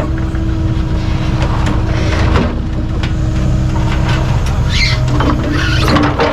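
Compact excavator's diesel engine running, its pitch stepping up and down now and then as the machine is worked, with a few short metal knocks.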